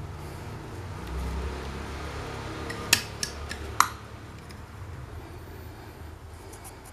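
A few sharp, hard clicks over a low, steady hum, the two loudest about three and four seconds in.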